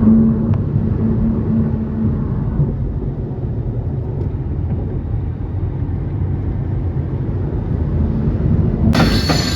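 Steady low road rumble of a car heard from inside the cabin while driving. Near the end it cuts suddenly to a loud, high-pitched metallic squealing with rapid clicking.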